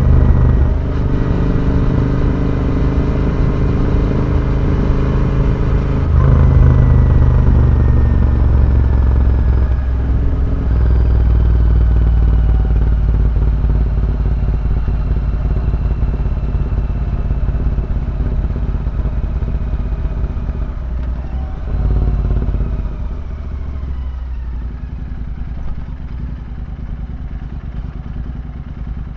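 Royal Enfield Interceptor 650's parallel-twin engine running through a full-system Red Rooster exhaust on the move. The note gets louder about six seconds in, then sinks slowly in pitch as the throttle eases. It swells briefly about two-thirds through, then settles quieter.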